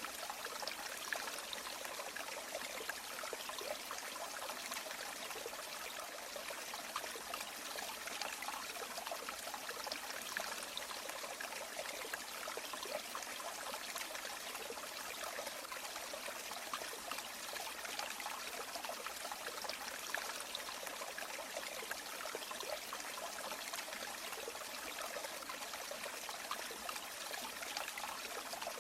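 A river or stream flowing steadily over stones, a constant babbling of water with fine splashes and trickles.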